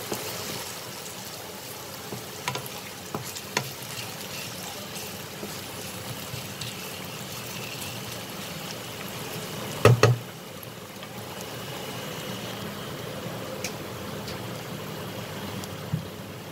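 Potato slices and chopped onion sizzling steadily in a little oil in a nonstick pan, with a wooden spatula scraping and clicking against the pan now and then. One loud knock about ten seconds in.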